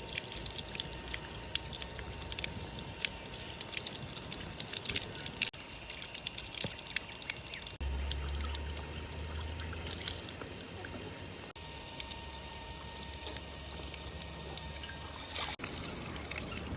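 Water pouring and trickling, a steady splashing hiss full of small drips, broken off and resumed by cuts a few times.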